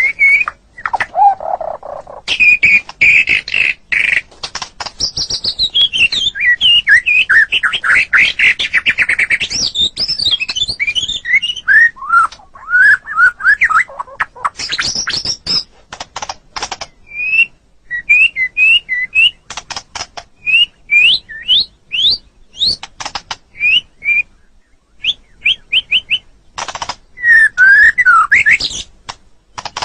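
White-rumped shama (murai batu) singing a long, varied song of loud whistles, fast trills and sharp clicking notes. In the second half it repeats short rising whistled notes.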